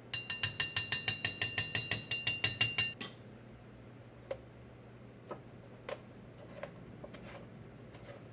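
A kitchen utensil clinking rapidly against a bowl, about six ringing taps a second for about three seconds. After that come a few scattered light clicks and knocks.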